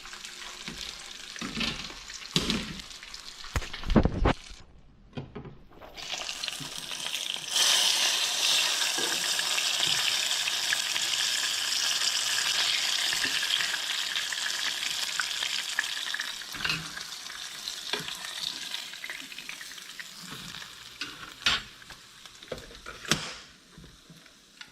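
Bluegill frying in hot grease after being flipped: a steady sizzle that swells loud about seven seconds in, after a few knocks and a brief lull, then slowly fades toward the end.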